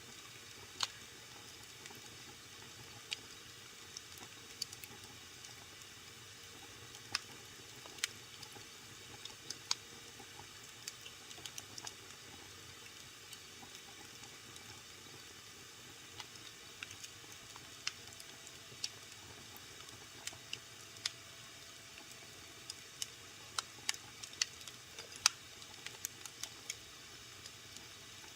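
Wood fire burning in a fireplace with a steady low hiss and irregular sharp crackles and pops, coming more often in the second half.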